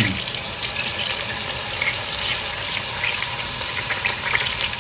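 Bratwurst pieces and sliced onions sizzling in melted butter in an open pot: a steady hiss with small scattered crackles.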